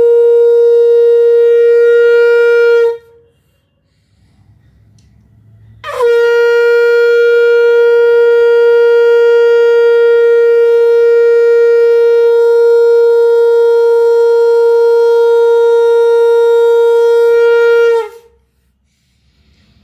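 Conch shell (shankh) blown in long, steady notes. One note ends about three seconds in, and after a short pause a new blast begins with a quick upward slide into the note. It is held for about twelve seconds before cutting off.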